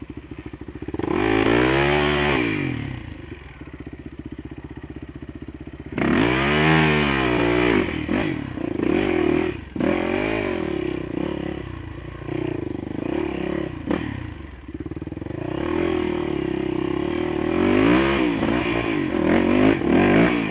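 Dirt bike engine ridden over rough track: low chugging at first, then revving up and dropping off sharply about a second in and again about six seconds in, held at steady revs with short dips through the middle, and revving hard again near the end.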